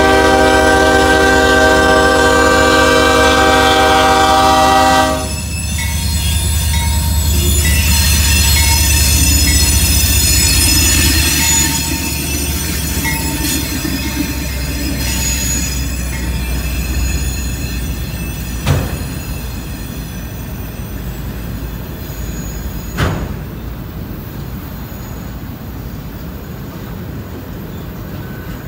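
CSX diesel locomotive sounds one long multi-tone horn blast at the grade crossing, cut off about five seconds in, then its engine rumbles past. The autorack cars behind it roll by with a high squeal of steel wheels on the rails and, later on, two sharp clanks a few seconds apart.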